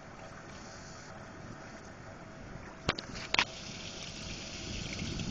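Heavy rain falling steadily, a continuous hiss. Two sharp clicks come about half a second apart, roughly three seconds in, and the rain noise grows louder after them.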